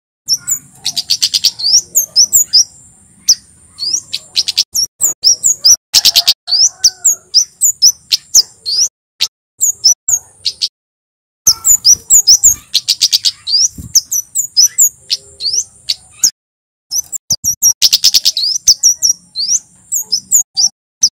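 Male kemade jawa songbird singing a rapid run of sharp, high chirps and twitters, loud and repeated, with a steady high-pitched whine behind most of it. The song breaks off twice for a moment of silence.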